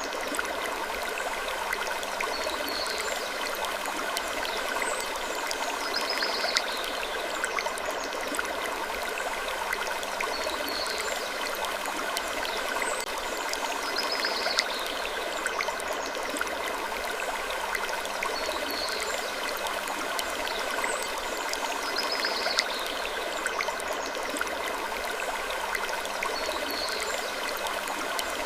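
Continuous sleep ambience of gentle wood creaking over a steady rushing bed of noise. Short high creaks recur every two to three seconds.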